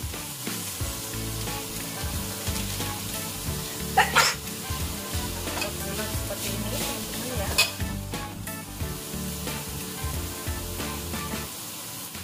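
Grated coconut sizzling in a wok with fried spice paste for urap, with a couple of sharp clatters of utensils about four seconds in and again around seven and a half seconds.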